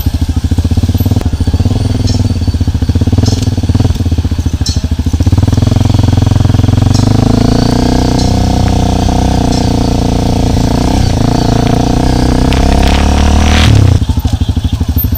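Motorcycle engine running under way, its note climbing gradually through the middle and dropping sharply near the end.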